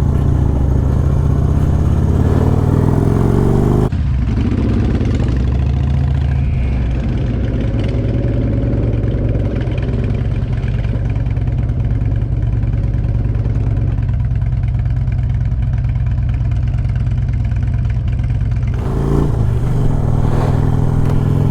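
Motorcycle V-twin engine running while riding, pitch rising and falling as it accelerates through the gears.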